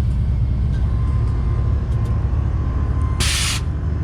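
Steady low rumble of a motor vehicle running, with a short, sharp hiss a little after three seconds in.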